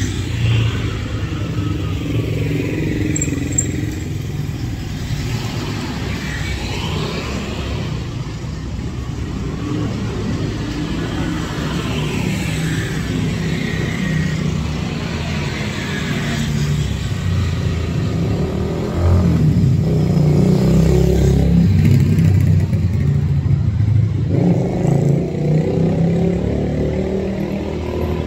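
Road traffic passing: engines running and rising and falling in pitch as vehicles go by, louder for a few seconds about two-thirds of the way through.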